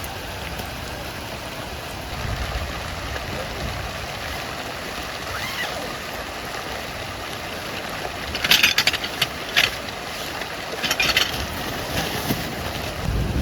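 Steady rain falling, with two short bursts of sharp clicking and rattling about two-thirds of the way through.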